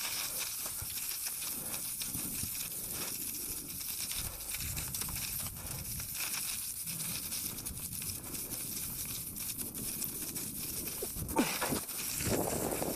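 Mountain bike rolling down a rough trail, its tyres crackling and crunching over the ground, with a steady rush of noise.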